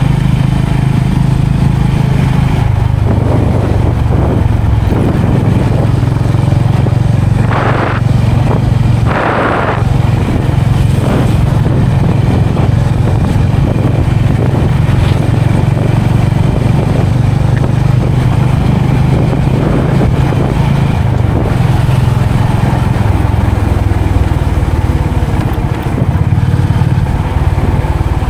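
Motorcycle engine running steadily on the move, its pitch shifting a few times, with two brief rushing noises about eight and nine seconds in.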